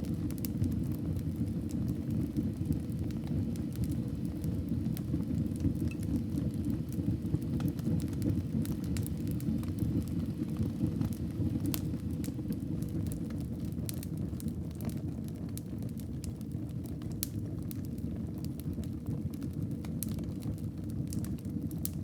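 Wood fire burning in a fireplace: a steady low rumble of the flames with scattered sharp crackles and pops of burning wood.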